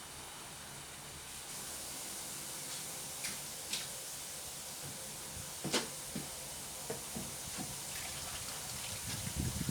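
Water running steadily from a tap, with a few short knocks and clatters over it; the sharpest comes a little past halfway, and a low rumble comes near the end.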